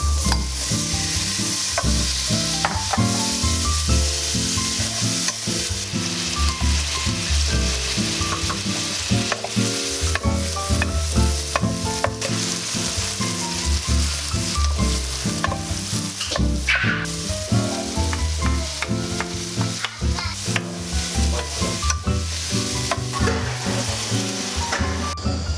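Food sizzling as it fries in a hot pan, with the clicks of a utensil stirring it, over background music with a repeating bass line.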